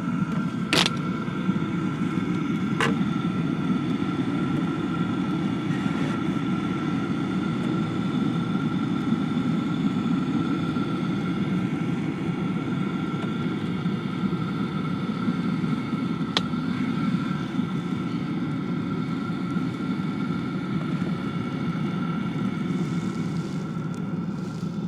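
A vehicle running steadily: a low engine drone with a steady high whine over it, and a few sharp clicks, two in the first three seconds and one about two-thirds of the way through.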